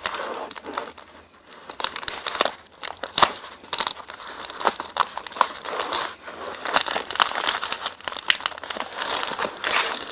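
Crinkly packaging being handled and unwrapped, with irregular sharp crackles and rustling that ease off briefly about a second in.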